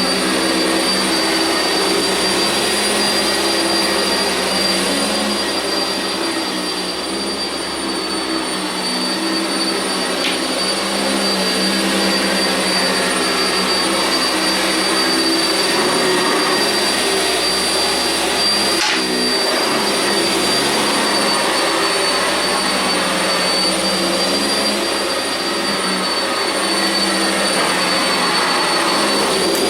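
Sanitaire SC679j commercial upright vacuum running steadily on carpet: a dense rushing motor noise with a high, steady whine.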